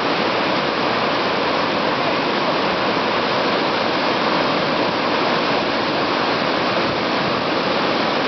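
Waterfall pouring down: a steady, unbroken rush of falling water.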